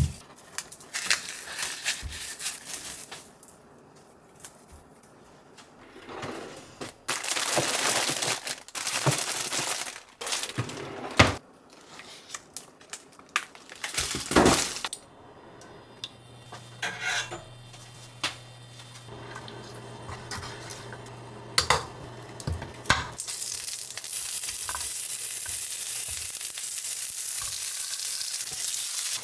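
Plastic packaging and a mesh produce bag rustling and crinkling in bursts as groceries are handled, with a few clinks. Then a steady sizzle of frozen dumplings and a kimchi pancake roll frying in oil in a frying pan.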